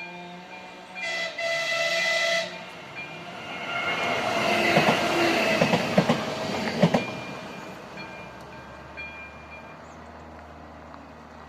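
Passenger train sounding its horn, a short blast then a longer one, then passing over the level crossing with wheels clattering over the rails, loudest a few seconds later and fading away.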